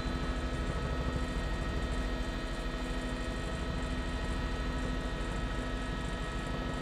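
Steady drone of a news helicopter's rotor and turbine, picked up inside the cabin, with several constant whining tones over a fast low pulsing.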